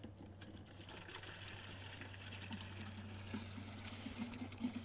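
Water trickling, with many small ticks over a low steady hum.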